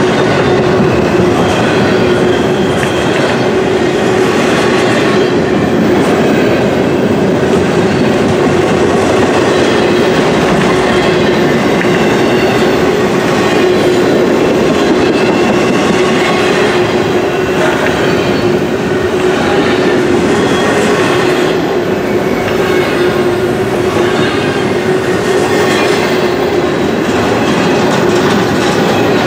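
Double-stack intermodal well cars rolling past close by: a loud, steady rumble of steel wheels on rail with irregular wheel clatter and a steady tone running under it.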